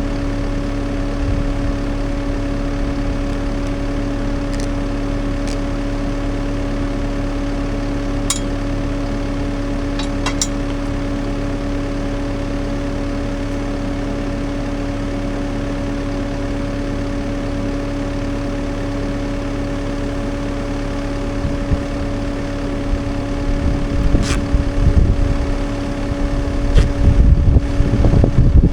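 Diesel engine and hydraulics of a CAT 299D3 XE compact track loader fitted with a Fecon mulcher, running steadily with a constant hum and a few light clicks. From about three quarters of the way in, louder, uneven low rumbling builds up as the machine works.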